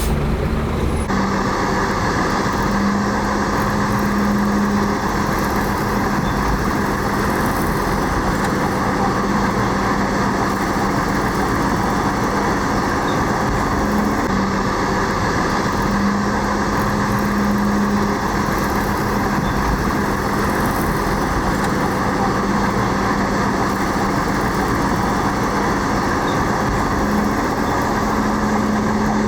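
Heavy diesel engine of earthmoving machinery running steadily, its hum swelling and easing slightly. The sound changes abruptly about a second in.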